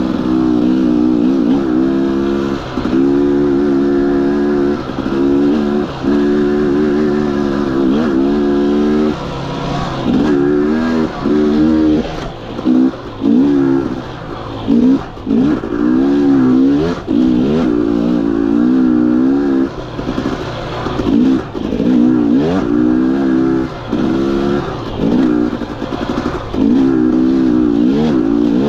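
Husqvarna TE 250i two-stroke dirt bike engine revving up and down as the throttle is opened and chopped over and over. The engine note rises and falls, with frequent short drops off the throttle.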